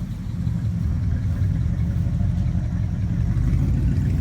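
A car engine running steadily with a low rumble, growing a little louder about half a second in.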